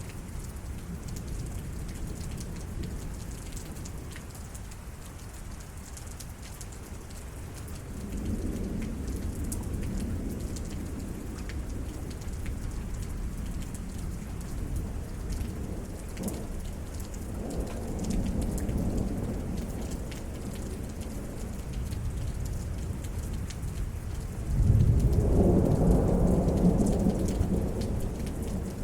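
Steady rain falling during a thunderstorm, with rolling thunder: low rumbles swell about 8 seconds in and again around 17 seconds, then a louder peal breaks in suddenly near the end and rumbles on.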